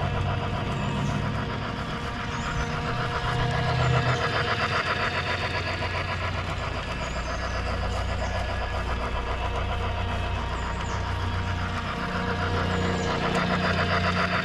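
Lionel model train running at speed around the track: the locomotive's motor whirring and the wheels clattering rapidly over the rails, over a steady low hum.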